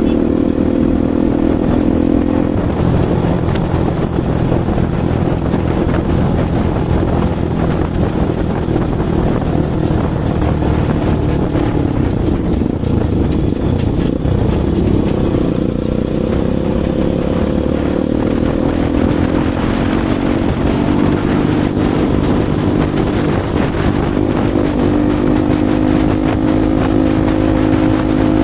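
Bajaj Pulsar NS200's single-cylinder engine running through an aftermarket Akrapovic exhaust, its pitch dropping after a couple of seconds and climbing again past the middle as engine speed changes.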